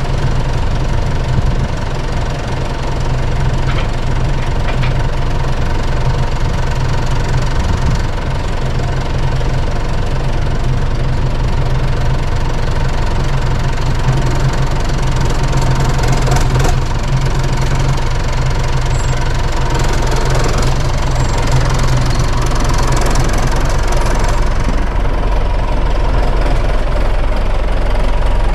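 Diesel farm tractor engine running steadily at a low, even speed.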